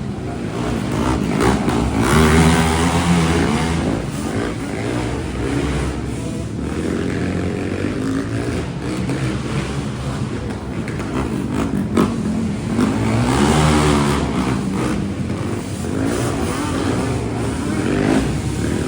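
Big monster truck engines running and revving, swelling loudest twice, about two seconds in and again about thirteen seconds in. There is a short sharp knock about twelve seconds in.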